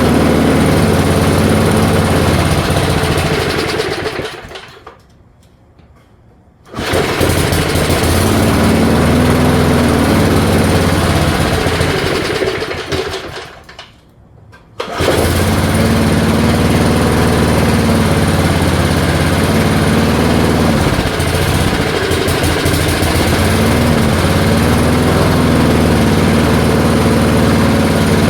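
1978 Allis Chalmers push mower's small engine running unevenly after ten years of sitting, its pitch wavering. Twice, about four seconds in and again near the middle, it dies away almost to nothing and then comes back suddenly, as it is kept going on stiff carburetor diaphragms that are being softened with PB Blaster in the fuel.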